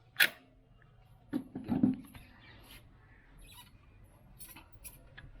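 Stock silencer of an Interceptor 650 being worked off its mounting by hand: a sharp metallic click, then knocking and scraping of metal on metal about a second and a half in, followed by small scattered clinks.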